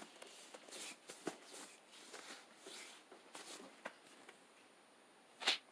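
A person chewing a mouthful of pasta with the mouth closed: soft, irregular wet clicks and smacks, with one sharper smack near the end.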